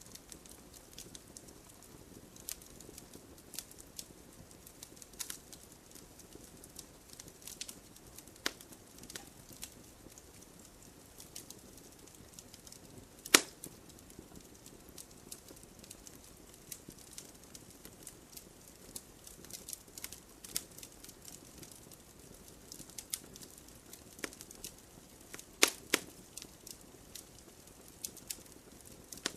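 Wood campfire burning: sharp irregular crackles and pops over a low steady hiss, with one loud pop about halfway through and a close pair of pops near the end.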